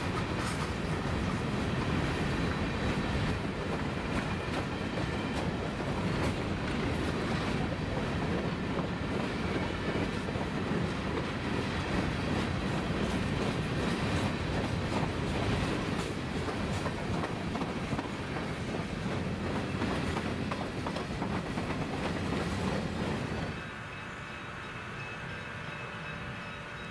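Coal hopper cars of a freight train rolling past close by, steel wheels clicking over the rail joints. About three seconds before the end it cuts suddenly to a much quieter, steady sound of a diesel switcher locomotive running.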